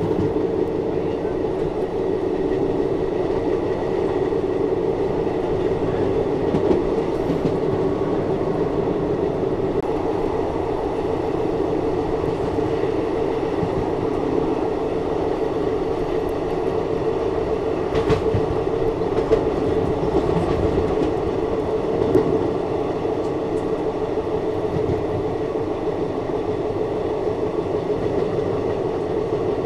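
Indian Railways express passenger train running along the track: a steady rumble with clickety-clack from the wheels, and a few sharper knocks past the middle.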